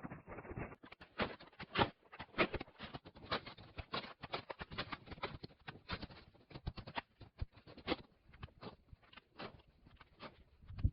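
Snow crunching and scraping in rapid, irregular strokes, several a second, as it is dug and packed.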